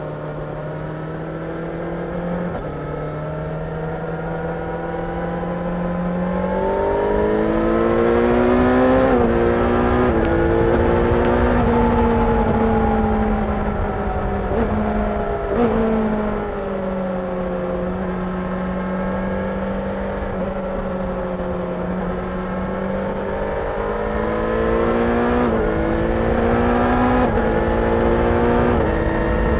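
Kawasaki Ninja 1000SX's inline-four engine under way. Its pitch climbs in steps with brief breaks as the rider changes through the gears, eases off and holds lower through the middle, then climbs again near the end, over steady wind and road rush.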